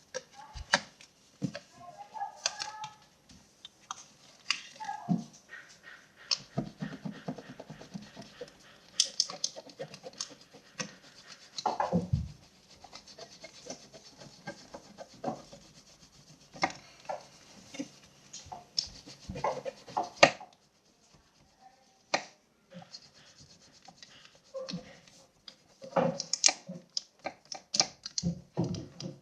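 Wax crayon rubbing and scratching on paper in short, uneven strokes, with small knocks from the paper box being handled.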